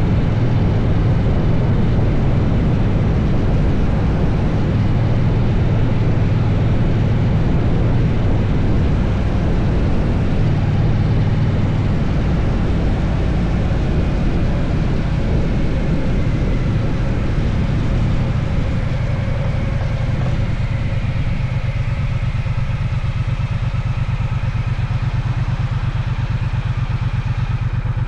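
Triumph Bonneville T120's parallel-twin engine running on the move, with rushing wind. About two-thirds of the way through, the bike slows, the wind falls away, and the engine settles into an even idle.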